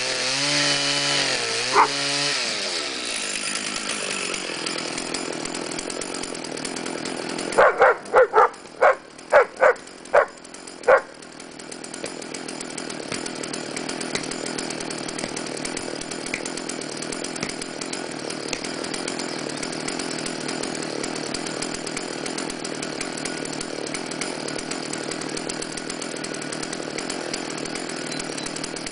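Chainsaw engine revving up and down, then running steadily as it cuts wood. A dog barks in a quick series of about nine barks from about eight seconds in.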